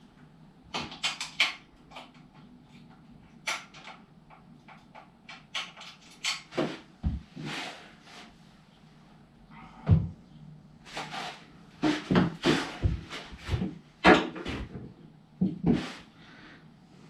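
Irregular clanks, knocks and scrapes of metal parts and hand tools being handled and fitted while a motorcycle's front end is reassembled.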